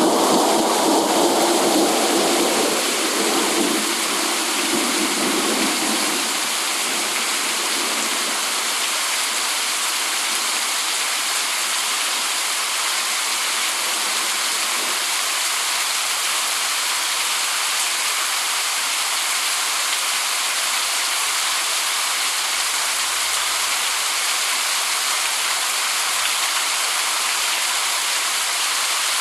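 Steady rain falling, an even hiss. For the first several seconds a deeper, louder rushing lies under it and fades away.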